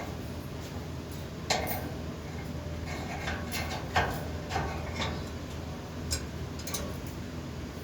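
Irregular light clicks and taps, about ten of them at uneven intervals, like small hard objects knocking against a dish.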